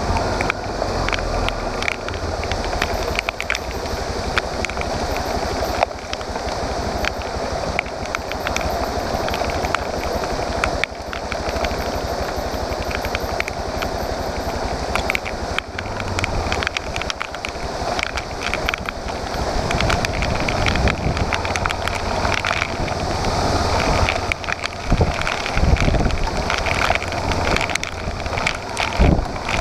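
Dual-sport motorcycle under way on a rough track: the engine running steadily under wind rush on the microphone, with scattered ticks and crackles throughout that grow louder and choppier near the end.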